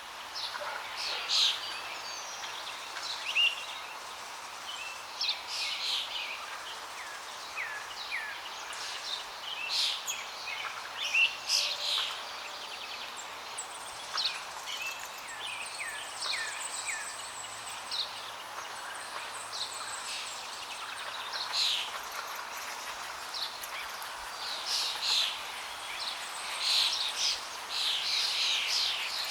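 Steady rush of flowing water with many small birds chirping and calling over it throughout, the calls coming thickest near the end.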